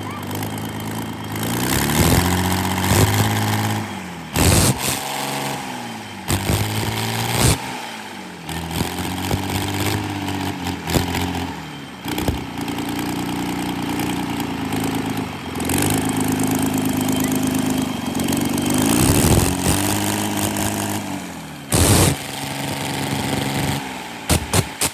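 Rebuilt Komatsu D85-21 bulldozer diesel engine running and being revved up and down over and over, its pitch dipping and climbing again every three to four seconds.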